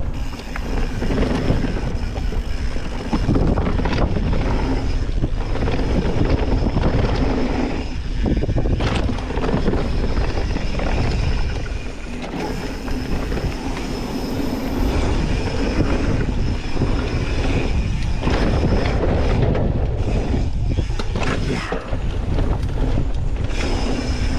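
Mountain bike ridden down a dirt trail, heard from a camera mounted on the rider or bike: a continuous rough rumble of tyres and frame with scattered knocks, easing briefly a few times.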